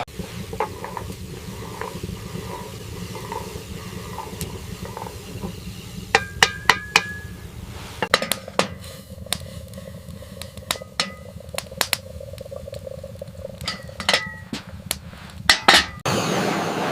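Irregular sharp knocks and clinks of hard objects striking, a few with a short ring: a quick run of four about six seconds in, then scattered single strikes, the loudest near the end.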